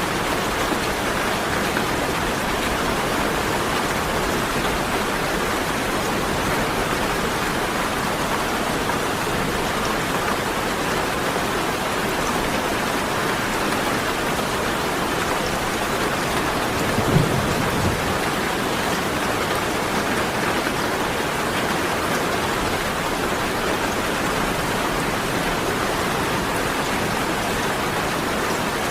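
Steady rain falling, an even hiss of drops, with one brief low thump a little over halfway through.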